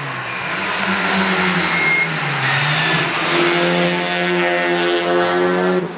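A rally car's engine running hard on a stage. Its pitch dips about two seconds in, then climbs again and holds high under acceleration.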